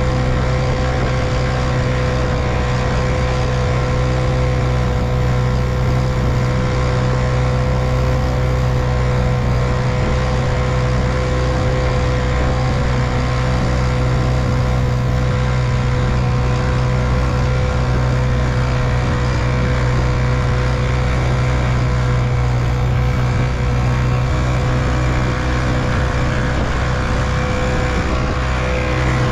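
1958 Evinrude 3 hp two-stroke outboard motor running at a steady speed, pushing a small boat along.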